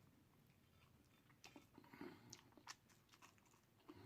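Faint chewing of deep-fried turkey tail, with a few soft, crisp clicks spaced irregularly through the chewing.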